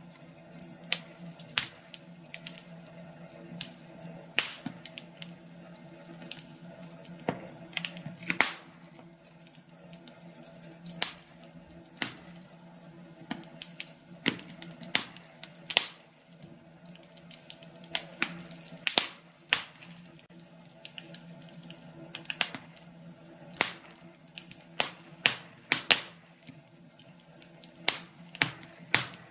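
Burning firewood crackling: irregular sharp pops and snaps, some louder than others, over a steady low background.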